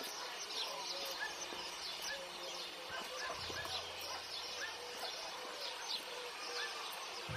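Birds chirping, with many short high calls repeated throughout. A low hum comes in briefly around the middle.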